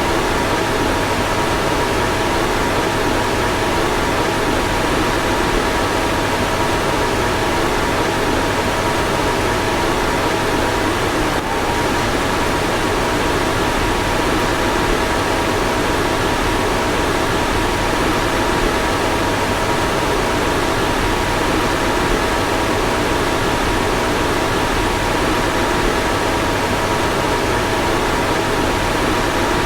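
Car fan running steadily: an even rush of air with a faint two-tone hum. There is a brief dip about eleven seconds in.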